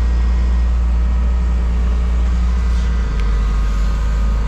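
Forklift engine running steadily under load, a deep low drone whose note drops slightly about three seconds in as the revs ease off.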